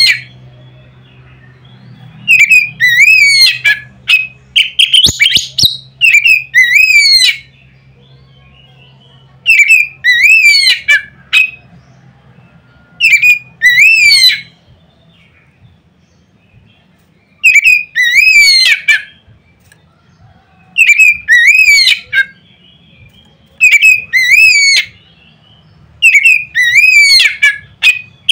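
Oriental magpie-robin (kacer) singing loud, sharp, whistled phrases that slide up and down. Each phrase lasts about a second and repeats every few seconds.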